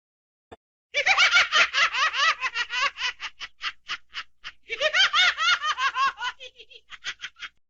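A high-pitched laughing sound effect: two bouts of rapid giggling, each trailing off into a few fading snickers.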